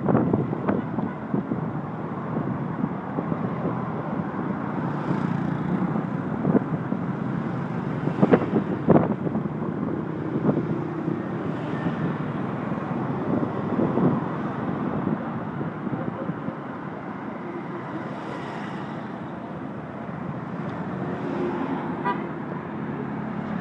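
Steady city road traffic noise with brief horn toots and a few sharp knocks.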